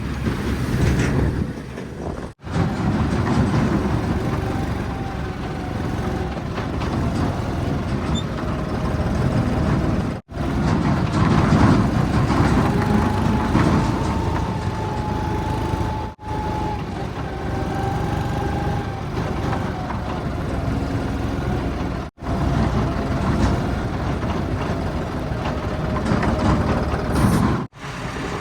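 Heavy diesel engines of working machinery running, in several short clips joined by abrupt cuts. Each clip holds steady engine noise with a faint whine, which rises a little in the middle clip.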